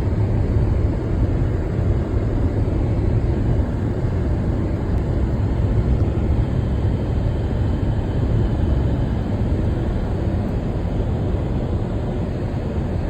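Car on the move: a steady, low rumble of road and engine noise with no change in speed.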